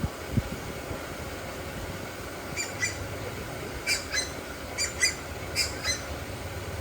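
Birds calling: four pairs of short, sharp squawks, starting about two and a half seconds in, over a steady low hum.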